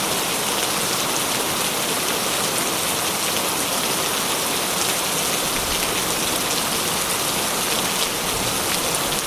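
Steady rain falling, an even hiss with scattered drops tapping on a surface.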